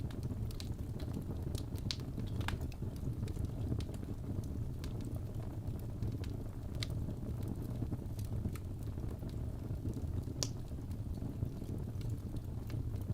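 Wood fire burning in a fireplace: a steady low rumble of the flames with scattered sharp crackles and pops from the burning logs, two louder pops about two seconds in and near ten and a half seconds.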